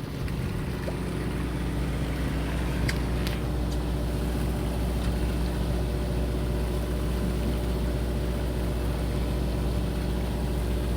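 A fishing boat's engine running steadily at idle, a low even drone. A couple of light clicks come about three seconds in.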